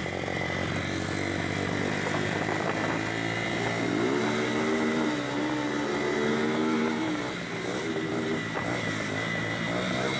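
Honda CB300 single-cylinder motorcycle engine running under way. It revs up about four seconds in, holds steady, then briefly eases off near the three-quarter mark before pulling again.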